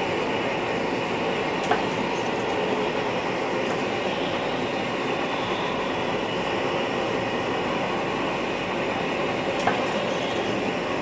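Steady running noise of an NS VIRM double-deck electric train, heard inside the driver's cab. Two sharp clicks stand out, one about two seconds in and one near the end.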